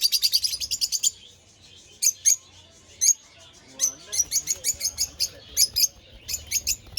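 Small caged birds chirping in an aviary: a fast run of high chirps in the first second, then a pause, then scattered chirps, singly and in quick pairs.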